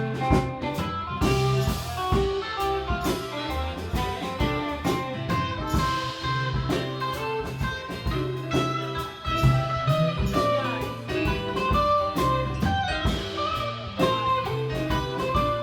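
Live band playing an instrumental blues-rock passage: guitar lines over a bass part and a steady drum beat.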